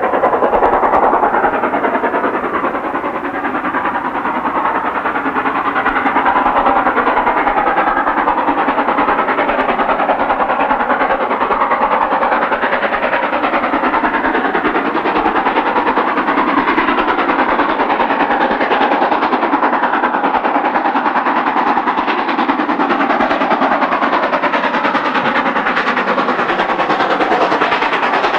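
LMS steam locomotive working hard up a steep 1 in 75 gradient with its train, a loud steady noise of exhaust and running train.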